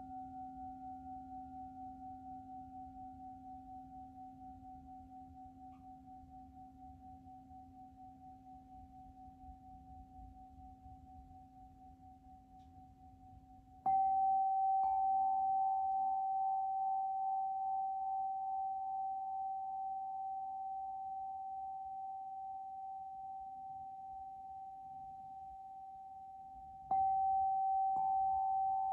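Ringing tones from struck sound-healing instruments, each dying away slowly with a gentle wavering beat. About halfway through, and again near the end, a fresh strike is followed a second later by a second strike with a slightly higher tone, so two close pitches ring together.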